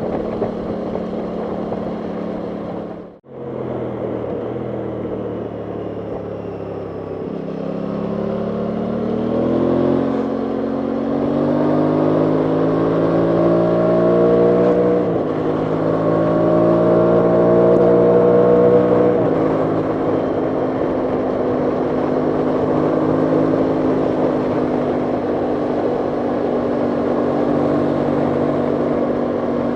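Aprilia Tuono 660's parallel-twin engine running under way. Its pitch climbs as the bike accelerates, drops at an upshift about halfway through, climbs again and steps down at a second shift, then holds steady at cruise. Wind rushes on the microphone throughout, and the sound cuts out briefly about three seconds in.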